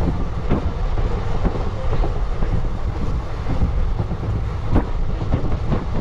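Moving passenger train heard from inside the coach: a steady low running rumble with irregular sharp clacks of the wheels on the rails.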